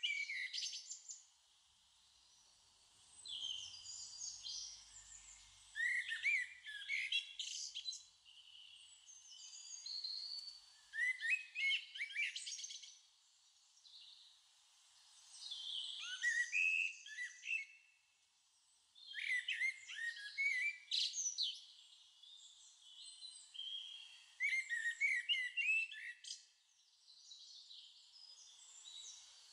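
Songbird singing: high, quick chirping and warbling phrases, each a second or two long, coming back every four to five seconds with short quiet gaps between.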